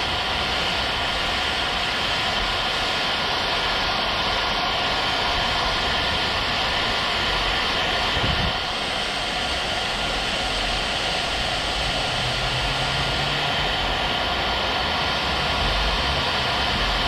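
Electric heat gun blowing steadily: a constant airy hiss with a faint high whine from its fan, as it heats black plastic car trim.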